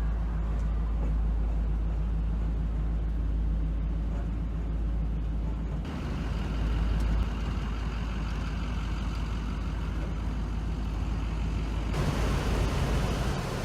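2012 Isuzu NPR's 6.0L Vortec gas V8 running steadily, with a heavy low rumble. The sound shifts abruptly twice, about six and twelve seconds in.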